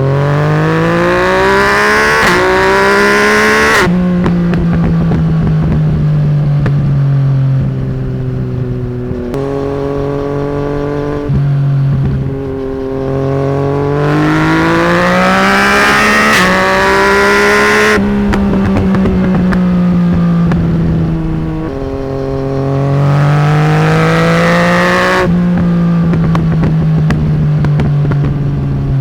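Yamaha MT-09's three-cylinder engine through a straight-pipe de-cat exhaust, loud, accelerating three times with its note rising slowly in pitch. Each time the throttle is shut abruptly, and the engine runs on with a steady note that sinks slowly as the revs fall.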